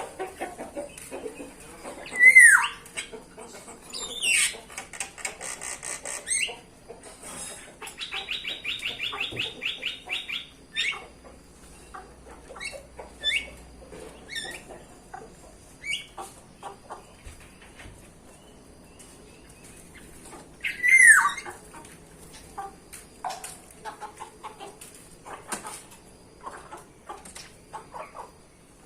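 Bulbuls calling: many short chirps, with two loud falling whistled calls, one a couple of seconds in and one about two-thirds through, and a rapid even trill lasting about two seconds around a third of the way in.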